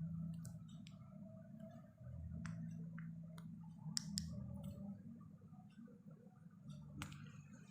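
Scattered light clicks and knocks from the casing of a Samsung CRT television as it is being taken apart, with a sharper knock about seven seconds in, over a low steady hum.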